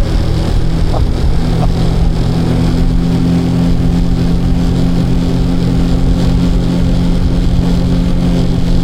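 A boat's outboard motor running steadily, with a constant low hum and an even rush of noise.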